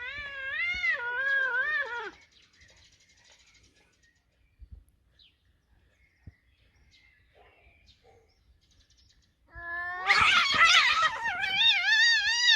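Domestic cats caterwauling in a standoff: a long wavering yowl, a quiet pause of several seconds, then a louder drawn-out yowl that rises and falls in pitch. This is the threatening yowl that comes before a fight.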